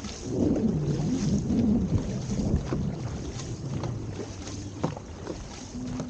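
Dragon boat out on the water, with wind buffeting the microphone and scattered knocks and splashes of paddle work. A voice calls out through the first part, then fades near the end.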